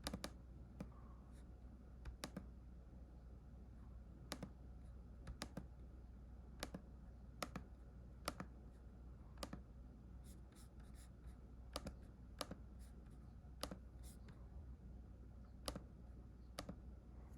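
Faint, irregular sharp clicks from a Lenovo laptop, roughly one a second, over a steady low hum.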